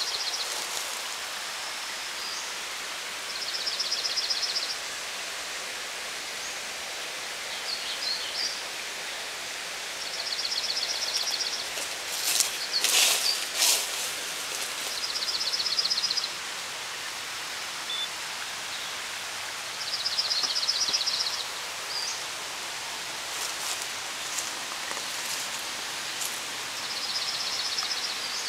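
A small bird sings a high, rapid trill about a second and a half long, repeated every five seconds or so, over steady outdoor background noise. A few sharp clicks come near the middle.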